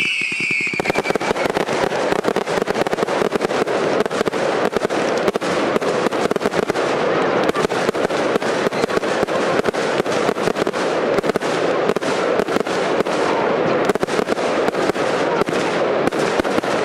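Fireworks firing: a high whistle dies away within the first second, then a dense, continuous barrage of rapid pops and crackling as crackling stars burst overhead.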